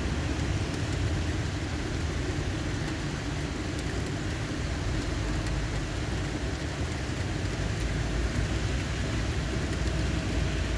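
Steady rain during a thunderstorm, with a deep, continuous low rumble underneath and no sharp claps.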